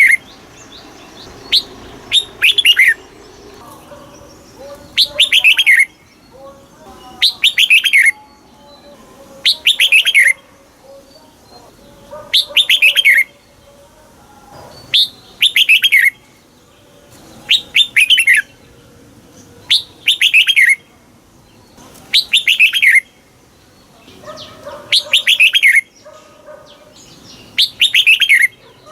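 Red-whiskered bulbul singing: short, bright phrases of quick falling notes, repeated every two to three seconds.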